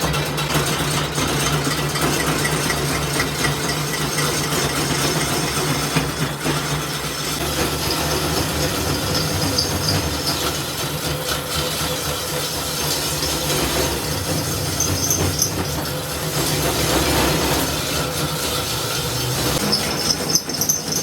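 Machinery running steadily, with a constant low hum under a noisy mechanical din.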